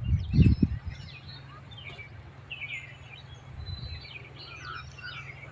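Several birds chirping and calling in quick short notes. A few loud low thumps sound in the first second, with a steady low hum underneath.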